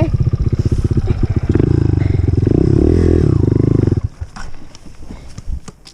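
Single-cylinder four-stroke engine of a 2018 Honda CRF125F dirt bike running, which cuts out about four seconds in, leaving only a few light clicks.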